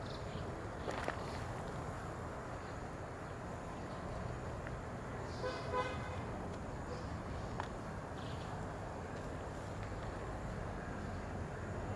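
Steady outdoor background noise like distant traffic, with one short pitched toot lasting about half a second near the middle.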